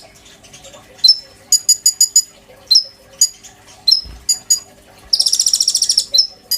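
Konin songbird singing: sharp high notes that drop in pitch, each followed by a quick run of four or five high chips, and a fast buzzing trill lasting about a second near the end.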